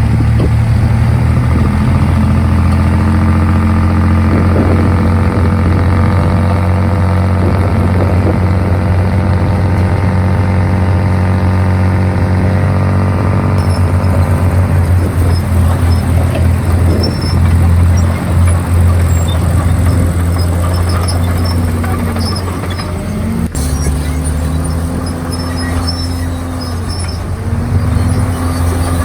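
Komatsu D51PX bulldozer's diesel engine running steadily under load. Its pitch sags and recovers a couple of times near the end as the engine lugs.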